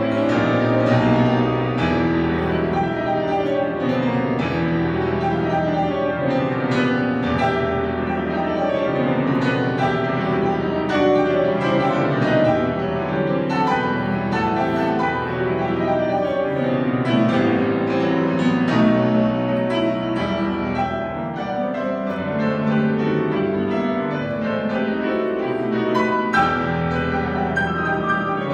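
Piano playing classical music: a steady stream of full chords and running notes, with no pause.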